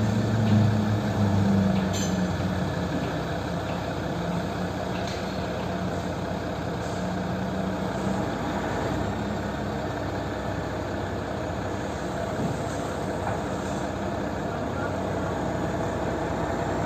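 Heavy truck's diesel engine running. Its hum is stronger in the first few seconds, then settles to a steady idle.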